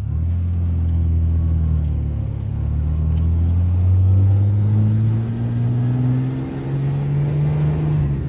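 Truck's straight-six engine pulling away under acceleration, heard from inside the cab: a low drone that comes up suddenly and rises slowly in pitch over several seconds.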